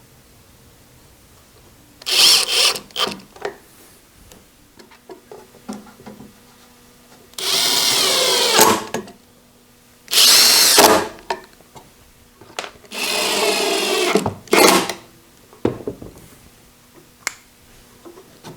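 Power drill driving screws into wood, several runs of about a second each with the motor slowing as each screw seats, and short taps and blips between, fastening metal ball-bearing drawer slides.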